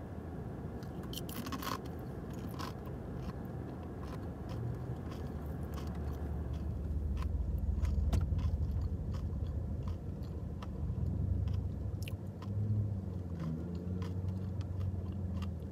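Close-up crunching and chewing of a crisp tortilla-chip cup, with sharp crunches in the first few seconds and then steadier chewing over a low hum.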